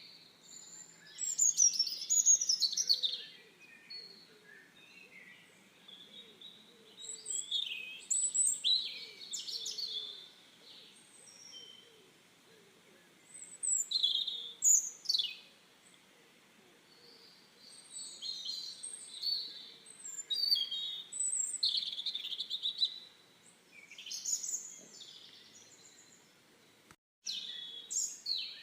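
Birds singing and calling in bouts of quick chirps, sweeps and whistled notes, with short quiet gaps between the bouts. The sound cuts out for a split second near the end.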